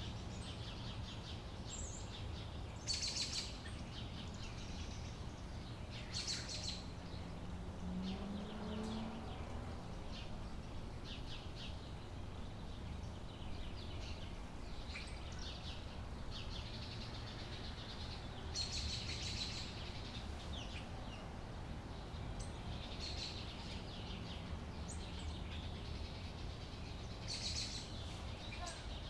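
Birds chirping in short high trills every several seconds, over a steady low outdoor rumble.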